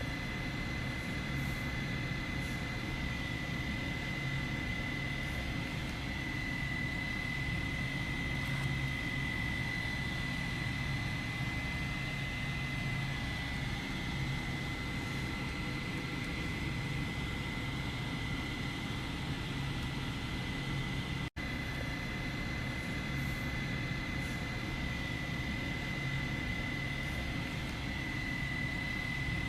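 Small battery-powered neckband fan running, its motor and blades giving a steady whirr with a constant high whine. The sound cuts out for an instant about two-thirds of the way through.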